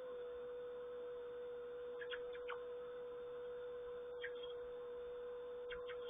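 A steady pure hum, with a few brief high bird chirps about two, four and six seconds in.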